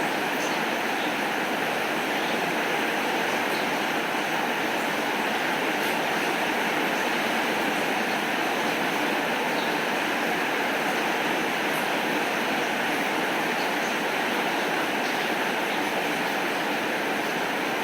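Steady, even rainfall, with faint scattered ticks of drops above it.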